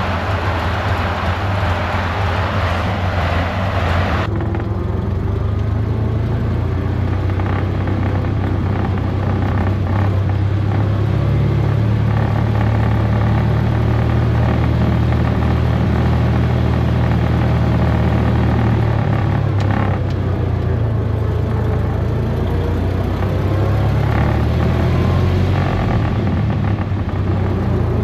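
The four-cylinder engine of a 1927 Dodge Brothers Fast Four runs steadily, warming up after a head gasket replacement. A loud hiss over it for about the first four seconds stops suddenly.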